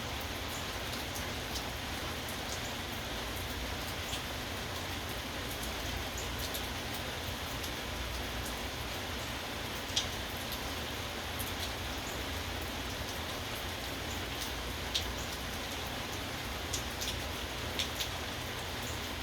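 Steady rain falling, with a few sharper drops ticking now and then, the clearest about halfway through and several near the end.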